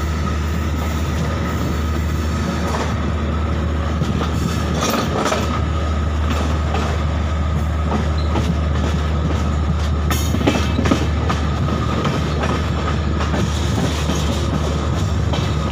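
Passenger train running, heard from inside the coach: a steady rumble of wheels on rail, with a faint steady squeal over it and bunches of clicks as the wheels cross rail joints, about five seconds in and again about ten seconds in.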